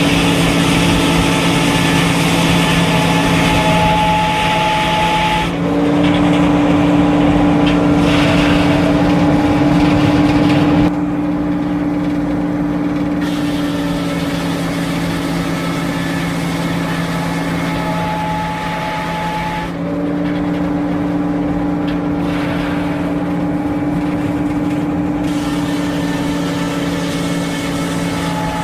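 Circular sawmill running: the steady drone of its power unit and spinning blade, with the hiss of the blade cutting through a log. The cutting sound drops off about eleven seconds in, and the rest is the mill running with lighter cutting noise.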